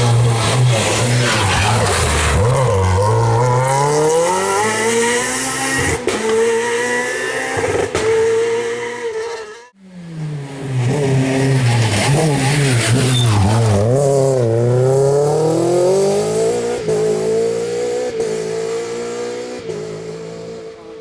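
Rally cars at full effort on a special stage: a high-revving engine whose note drops as it brakes and changes down, then climbs again through the gears as it accelerates away. It cuts off suddenly a little before halfway, and a second car does the same, fading toward the end.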